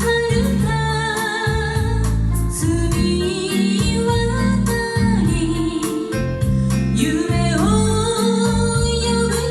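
Bossa nova song sung by a woman with keyboard accompaniment, over a steady bass line and gentle rhythm.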